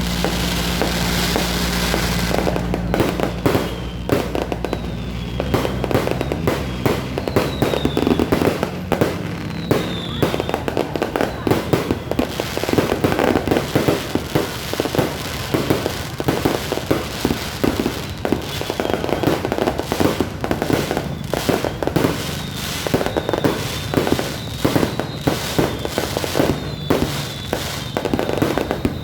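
Fireworks and firecrackers going off in a dense, continuous string of bangs and crackles, with short falling whistles now and then.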